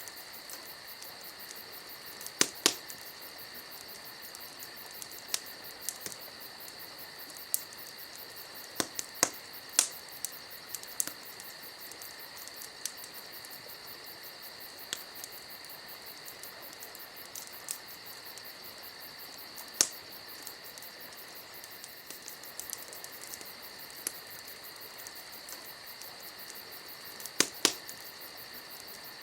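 Campfire crackling with scattered sharp pops from the burning wood, over steady, high-pitched cricket chirring.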